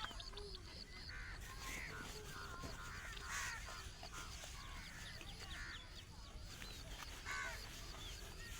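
Several birds calling at once. One high, short chirp repeats steadily about four times a second, with other varied calls over it.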